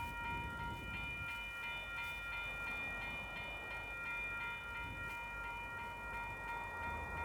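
Western-Cullen-Hayes electronic level crossing bells ringing in rapid, evenly repeated strikes, with a train rumbling through the crossing.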